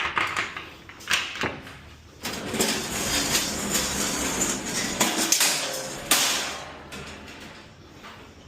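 Empty delivery containers being handled inside a box truck's cargo area: a couple of knocks, then a few seconds of sliding and scraping, ending in another knock.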